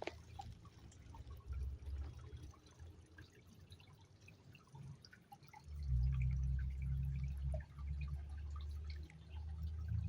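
River water trickling and dripping in small splashes, over a low rumble that swells from about six seconds in.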